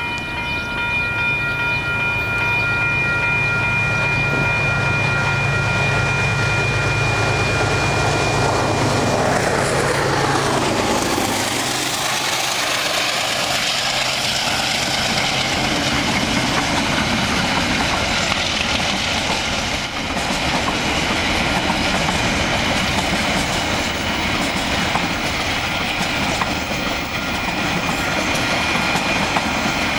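A train passing close by on a level crossing: the diesel locomotive's engine hum drops in pitch as it goes past about ten seconds in, with steady high tones sounding until then. The wagons then roll by with a continuous rattle and clickety-clack of wheels on the rails.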